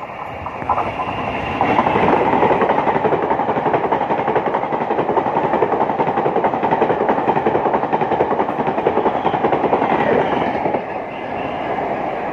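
Taiwan Railway E1000 push-pull Tze-Chiang express passing through a station at speed: a steady rumble and clatter of wheels on rail as the coaches go by. About eleven seconds in, it drops to a quieter train sound.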